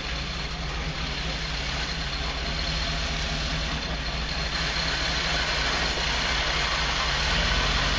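Off-road rock crawler's engine running at low revs while the vehicle crawls slowly over rocks: a steady low engine hum under an even hiss, growing a little louder toward the end.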